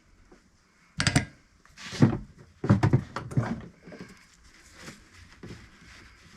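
A few sharp knocks and rattles from hard parts or tools being handled: a cluster about a second in, another at two seconds, then a run of clattering until about three and a half seconds in.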